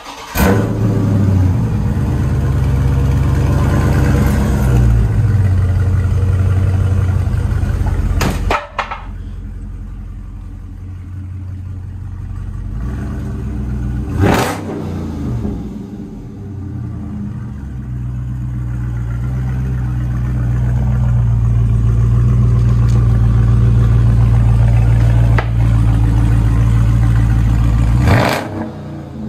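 Dodge Charger Widebody's Hemi V8 exhaust: the engine fires up suddenly and runs at a loud fast idle, drops to a lower, quieter idle about eight seconds in, then rises to a steady louder note from about eighteen seconds before dropping away near the end.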